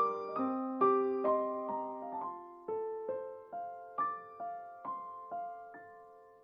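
Background piano music: single notes struck about twice a second, each ringing and decaying, the phrase slowing and fading out near the end.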